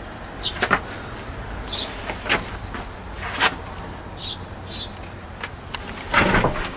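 Scattered light knocks and clicks, a few seconds apart, the loudest about six seconds in, with several short high chirps between them.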